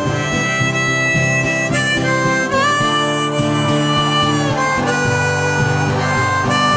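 Harmonica playing a melody of long held notes, with a bend about two and a half seconds in, over a strummed acoustic guitar: the instrumental intro of a karaoke backing track of a country-folk song.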